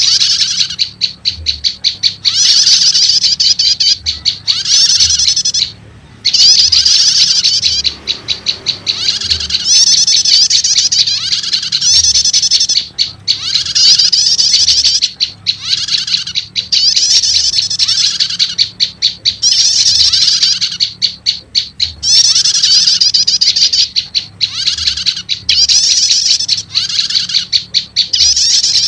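Bird-lure recording of prenjak lumut calls mixed with a prenjak 'starter' call: loud, rapid high chattering phrases repeated almost without pause, with a brief break about six seconds in. It is a call track made to draw wild prenjak lumut in.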